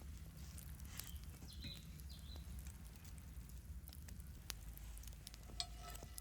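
Quiet outdoor ambience: a steady low rumble with scattered faint clicks, two brief high chirps about two seconds in, and a short clink with a ringing tone near the end.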